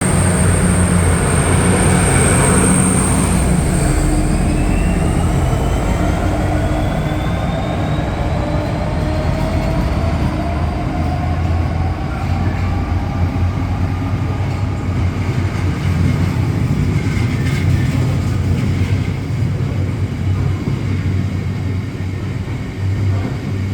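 A Class 66 diesel-electric freight locomotive's EMD two-stroke V12 engine passes under power, loudest in the first few seconds. A long rake of freight wagons then rolls by in a continuous rumble, with thin tones sliding upward from about four seconds in.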